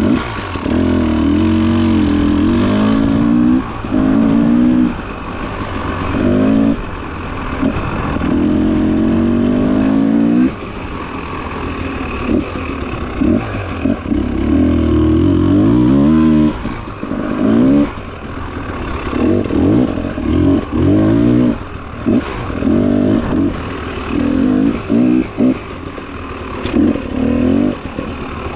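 Motorcycle engine under way on a trail, revving up and easing off again and again as the throttle is opened and closed, its pitch rising and falling with frequent short lulls.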